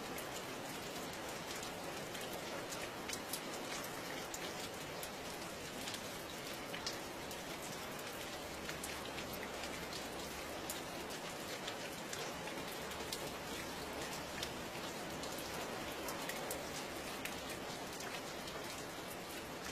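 Steady rain falling, a constant hiss with scattered sharper ticks of individual drops striking a surface.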